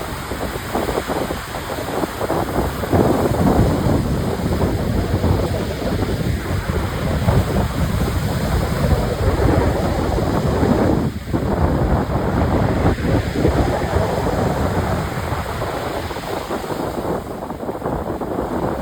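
Sea surf washing in, with wind buffeting the microphone in uneven gusts.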